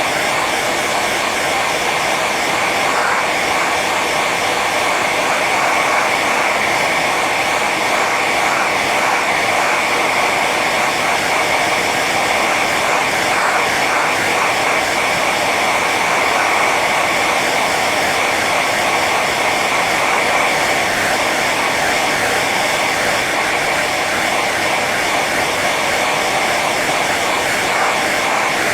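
Hair dryer running steadily on its high setting, an even blowing rush with a constant whine from the fan motor.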